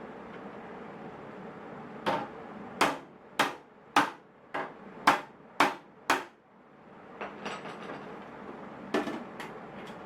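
Hammer blows on the latch of an aluminium toolbox, fixing it where it had worked loose: a run of about eight sharp metallic strikes a little over half a second apart, then a few light clicks and three more taps near the end.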